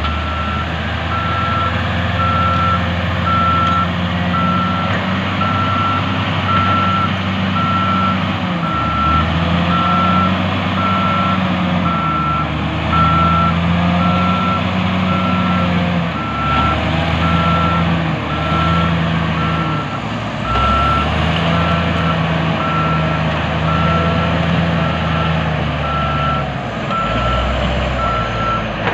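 A heavy earthmoving machine's back-up alarm beeping steadily over the loud diesel engine of the machines at work. The engine note rises and falls several times as the load changes.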